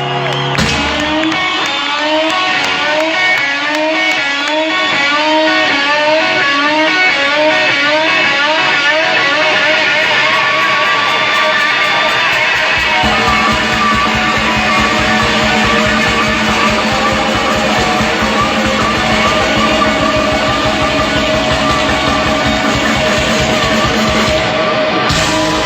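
Rock music: an electric guitar plays a repeating riff of bent notes on its own, and drums and bass come in about halfway through.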